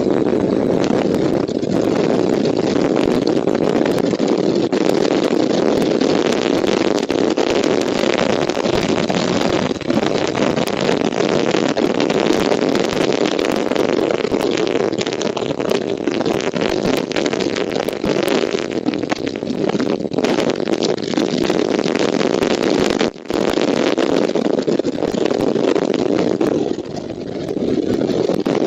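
Strong wind buffeting the eagle nest camera's microphone: a loud, steady rushing rumble, broken once by a brief dropout about two-thirds of the way through.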